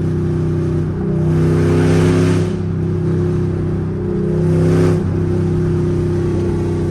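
Loud V8 muscle-car exhaust running under way, a steady drone that swells twice, about two seconds in and again just before five seconds.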